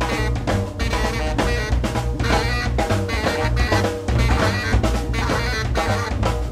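A saxophone, drums and bass jazz trio playing live: busy, irregular drum-kit hits under held saxophone lines, with the bass underneath.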